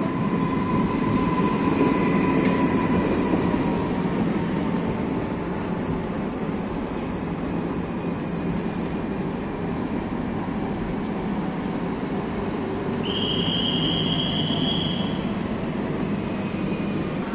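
Electric multiple-unit passenger train rolling slowly along the platform track with a steady low rumble and a faint whine. About 13 seconds in, a high squeal holds for about two seconds.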